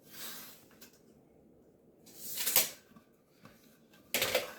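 Handling noises from an old 2x board and the tools measuring it: soft scuffs and rustles, with a sharper scrape near the end.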